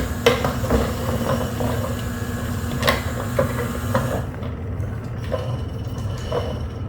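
A battery-powered cat toy's small motor running with a steady hum, with scattered clicks and knocks throughout.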